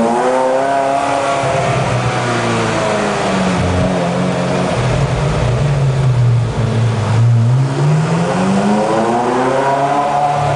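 Ferrari F355's V8 engine heard from inside the cabin while driving through a tunnel. The revs drop just after the start, hold low through the middle, then climb again over the last few seconds as the car accelerates.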